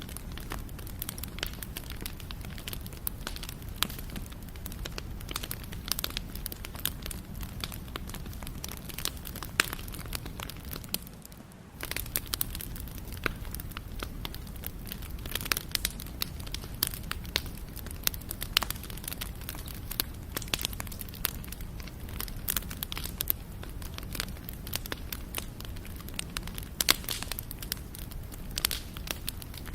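Wood fire (campfire) crackling, with many sharp pops and snaps over a steady low rumble of burning. The sound dips briefly for about a second, a third of the way in.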